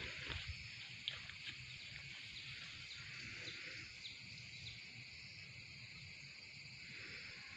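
Steady high insect buzzing with scattered short, high bird chirps over it, and a low rumble underneath.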